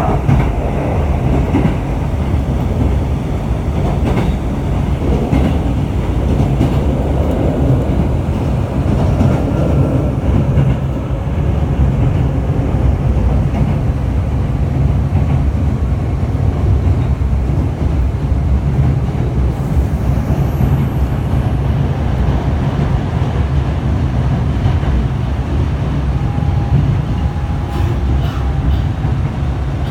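Hankyu electric commuter train running at speed on the line, a steady heavy rumble with some clickety-clack of wheels over rail joints.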